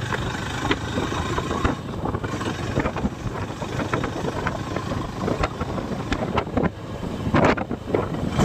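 Motorcycle running on the move, with wind buffeting the microphone and many short knocks and rattles scattered throughout, loudest near the end.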